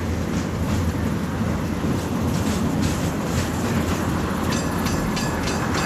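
A train running on rails: a steady rumble with repeated clicks of wheels passing over rail joints.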